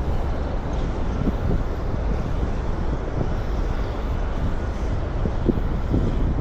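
Steady outdoor city ambience dominated by a low rumble of traffic, with a few faint short knocks.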